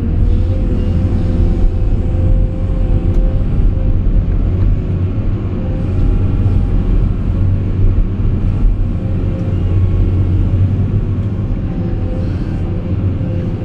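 CAT 349E excavator's diesel engine running steadily, a deep low rumble with a steady whine above it.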